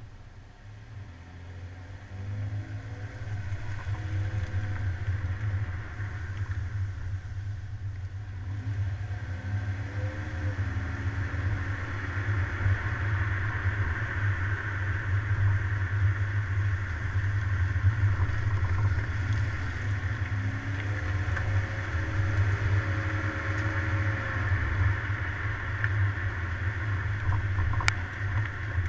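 A car driving at speed: a steady engine and road rumble under road noise that builds partway through. The engine's pitch rises and falls a few times as it revs, and there is a sharp click near the end.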